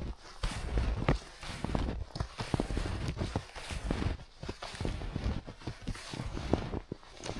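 Snowshoes crunching through fresh snow at a steady walking pace, one crunch per step.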